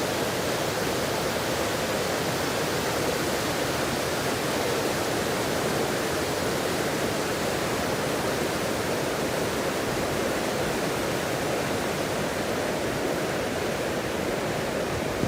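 Rushing water, a steady even noise with no breaks or changes in level.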